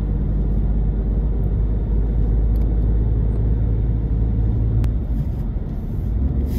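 Car driving along a road: a steady low rumble of engine and tyres, with a single faint click just before five seconds in.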